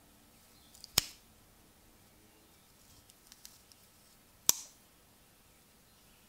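Restored folding pocket knife's blade snapping into place on its backspring: two sharp clicks about three and a half seconds apart, each preceded by faint small ticks as the blade is swung.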